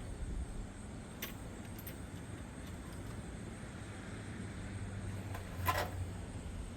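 Steady low rumble with a light click about a second in and a short clatter of small hard objects near the end.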